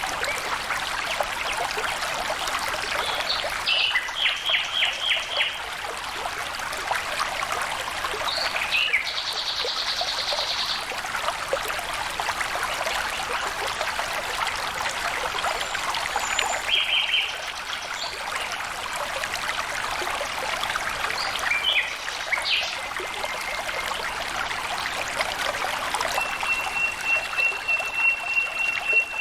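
Stream water flowing and trickling steadily, with small birds calling over it. The calls come as short runs of repeated notes, a fast trill about ten seconds in, and a long even trill near the end.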